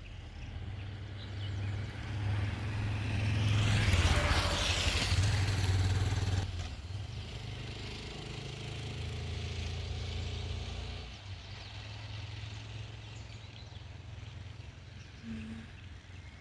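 Motor vehicle rumble with road noise. A louder vehicle sound swells to a peak about four seconds in and fades, and the level drops suddenly at about six seconds to a steadier, quieter rumble.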